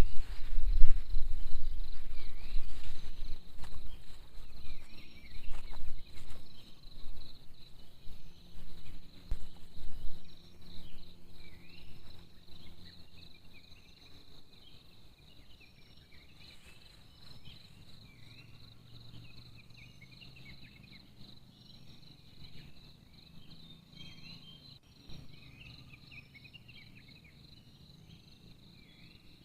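Forest insects, crickets among them, chirring steadily at a high pitch with scattered chirps. Irregular low rumbling and thuds are loudest over the first dozen seconds and then die away.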